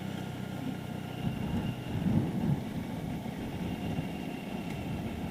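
Motorcycle engine running on the move, a steady low drone that grows louder about a second in.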